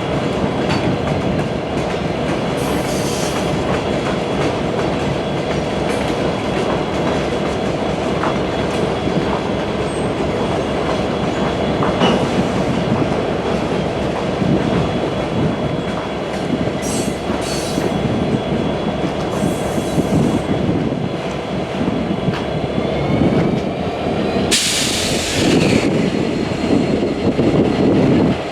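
A train rolling past, its wheels clicking over the rail joints with a steady rumble. Near the end there is a brief high-pitched burst of noise, like a wheel squeal.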